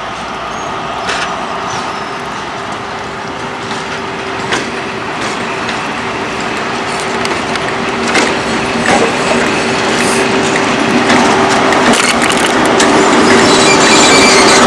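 A train running on the track, getting steadily louder, with a steady hum and scattered clicks and knocks from the wheels and rails.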